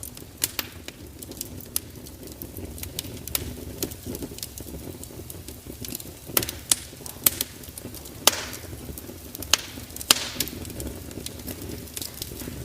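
Fire crackling: irregular sharp pops and snaps over a steady low rumble, coming thicker and louder in the second half.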